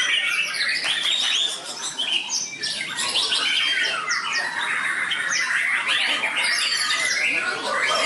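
Several white-rumped shamas (murai batu) singing over one another in competition: a dense, unbroken run of quick, overlapping whistled phrases that rise and fall.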